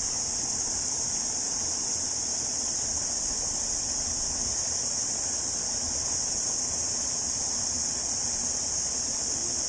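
A chorus of cicadas singing, a steady high-pitched shrilling that does not let up, over a low, even rushing.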